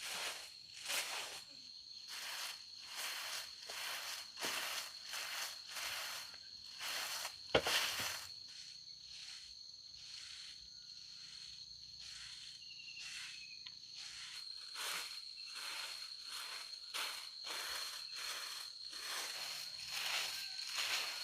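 A steady high insect buzz runs throughout, with rhythmic rustling footsteps about one and a half a second. The steps pause for a few seconds in the middle, and there is one sharp knock just before the pause.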